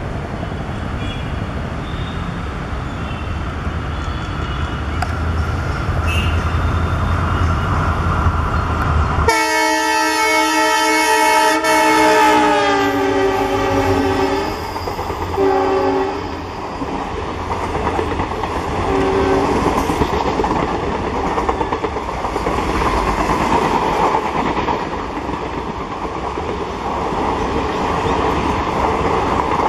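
Twin EMD GT46MAC (WDG-4) diesel locomotives, each with a 16-cylinder two-stroke engine, approaching at speed with a deep rumble, then sounding a long horn about nine seconds in that drops in pitch as they pass, followed by two short blasts. The passenger coaches then rush past with a steady rattle and clickety-clack of wheels over the rail joints.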